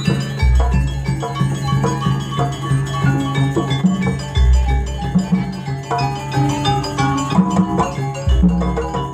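Gamelan-style jaranan music: struck metallophones ringing out short notes in a busy pattern over a steady low drone, with a deep low stroke three times, about every four seconds.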